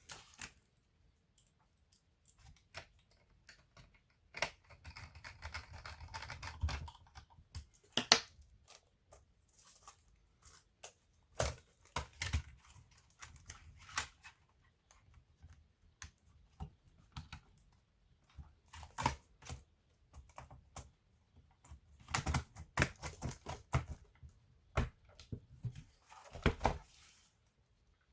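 Scattered clicks and taps from hands working on a laptop, with a scraping, rustling stretch about four to seven seconds in and a shorter one near the end.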